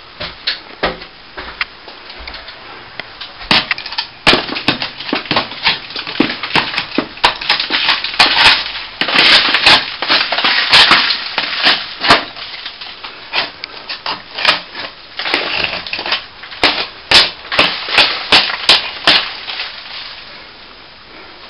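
Old plaster being scraped and chipped out of wall cracks with a hand tool: irregular scraping with many sharp crunches and cracks of crumbling plaster, busiest in the middle and easing off near the end.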